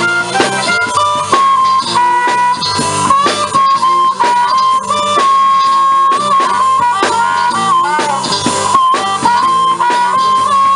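Live blues band playing an instrumental break: a harmonica solo of held and bent notes over guitar and a steady drum beat.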